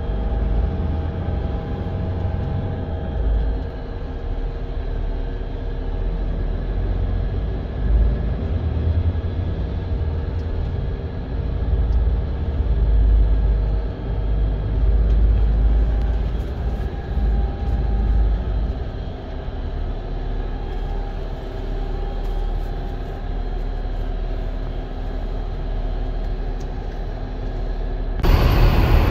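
A large vehicle engine running with a steady low rumble and a hum of several steady tones. About 28 seconds in, the sound cuts suddenly to something louder and brighter.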